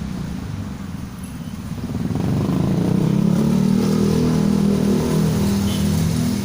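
A motor engine running with a steady, pulsing hum, getting louder about two seconds in.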